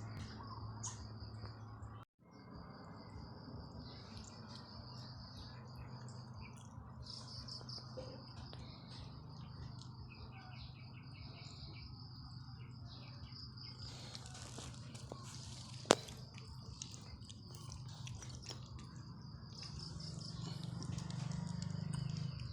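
Steady high-pitched insect trill, cricket-like, with bird chirps, over a low steady hum and scattered small ticks; one sharp click about 16 seconds in.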